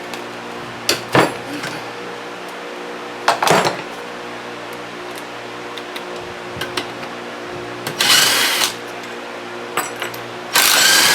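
Two short bursts of a pneumatic tool spinning out the compressor's head bolts, the first about eight seconds in and the second near the end, with a few sharp metal clinks earlier. A shop fan hums steadily underneath.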